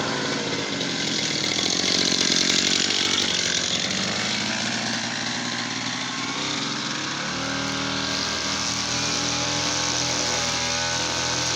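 Small two-stroke brush cutter engine running loud and revving, then dropping abruptly to a steadier, lower note about seven seconds in.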